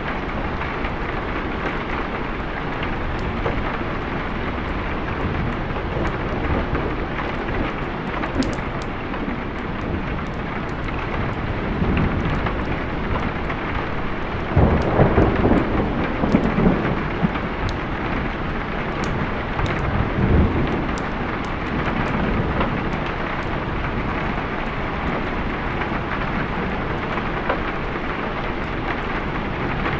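Steady rain falling through a thunderstorm, with thunder rumbling low and loud about halfway through and again a few seconds later.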